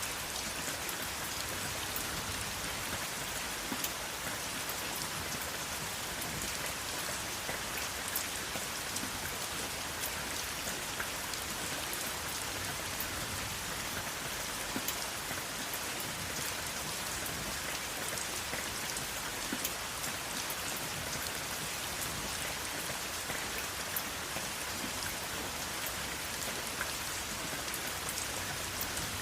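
Steady rain, with scattered sharp drop ticks over an even hiss and no thunder.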